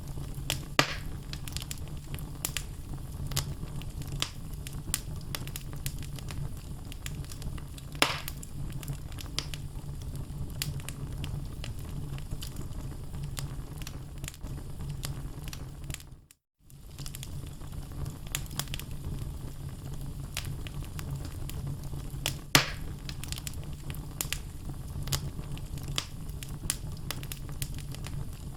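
Wood fire burning in a fireplace: logs crackling steadily over a low rumble of flame, with three louder pops. The sound cuts out for a split second about halfway through.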